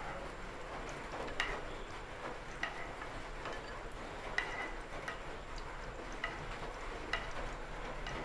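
Hot ghee sizzling in a frying pan while roasted cashews and raisins are scooped out, a spoon clicking against the pan about once a second.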